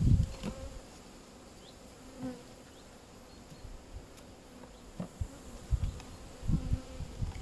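Honeybees buzzing around an open hive, a faint steady hum, with a few low knocks and bumps from hive parts being handled, the loudest right at the start and a cluster about five to seven seconds in.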